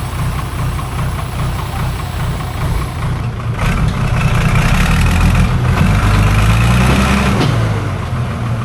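Heavy logging truck's engine running under load, revving harder about halfway through and holding there for a few seconds before easing back, as the truck tries to pull out of deep mud.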